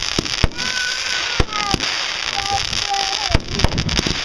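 Fireworks going off: several sharp bangs over a steady crackling hiss, with a few short whistling tones that sag slightly in pitch.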